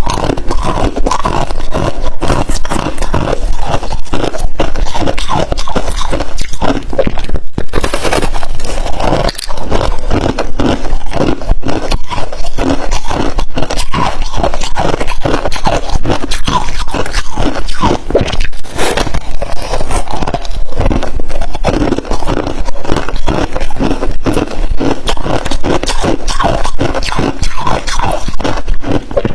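Freezer frost being crunched close to the microphone: a dense, continuous run of short crunches.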